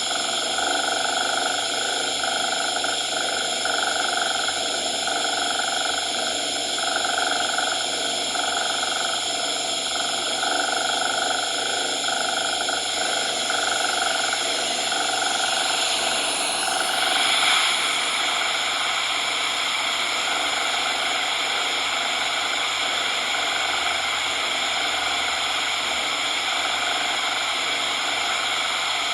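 Steady generated coloured noise, an even hiss spread across the range, whose tone shifts slightly a little past halfway.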